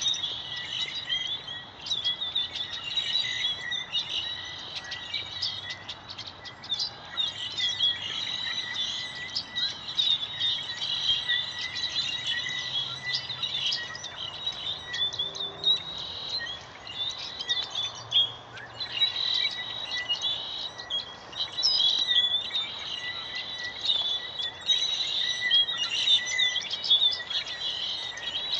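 A flock of birds in a tree chirping and chattering, many short calls overlapping continuously.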